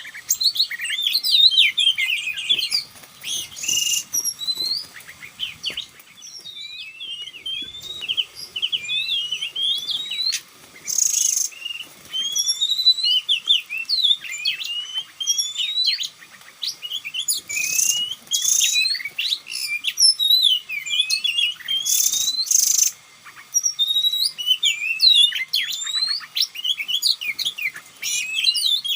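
Oriental magpie-robin singing a varied run of quick rising and falling whistles, broken every few seconds by short harsh rasping calls.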